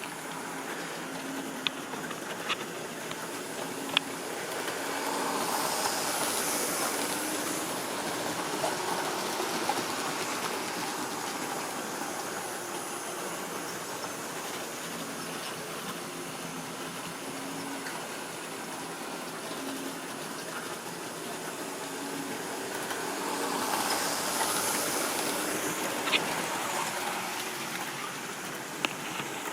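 Model train of Triang or Lima rolling stock running on a model railway layout: a steady whirring rattle of motor and wheels on the track, with sharp clicks at the rail joints. It swells louder twice, about eighteen seconds apart, as the train comes past on its loop.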